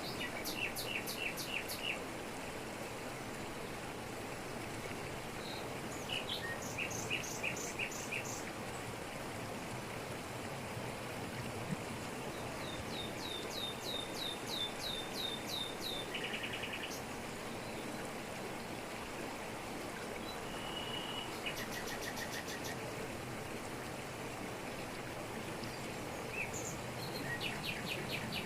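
Steady rush of a waterfall falling over rocks, with birds calling over it in about five short bouts of quick repeated chirps, one of them near the middle a longer run of notes.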